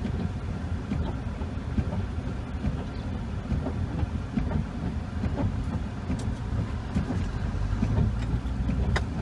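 Car driving on a snowy road, heard from inside the cabin: a steady low rumble of engine and tyres with many small irregular knocks and clicks.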